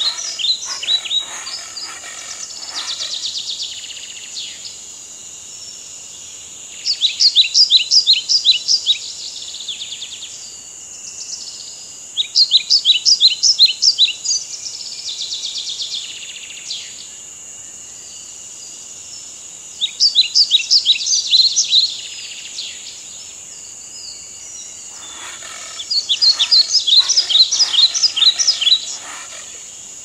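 Bird song in five bursts of rapid, repeated downward-sweeping chirps, one every five seconds or so. Beneath it runs a steady high-pitched insect drone.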